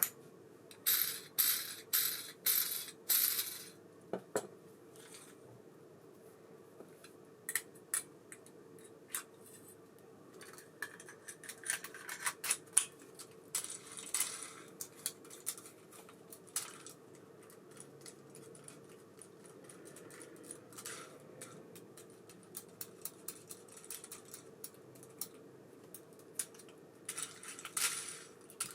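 Small metal clicks and clinks from an Abu Ambassadeur 5500C baitcasting reel being worked on by hand. A handful of short, loud, raspy bursts come in the first few seconds, followed by many scattered light clicks and ticks.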